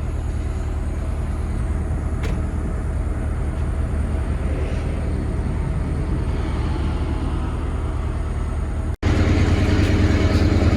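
A motor running steadily with a low droning hum. About nine seconds in it cuts out abruptly, then carries on louder.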